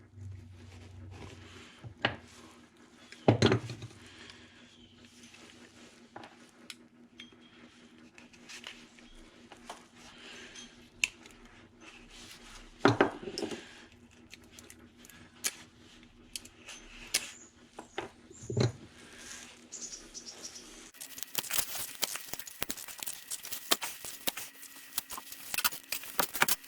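Metal hand tools clinking and scraping against a pressure washer pump while prying out its last valve, which has fallen apart. There are scattered sharp knocks, and the clicking turns rapid and dense near the end.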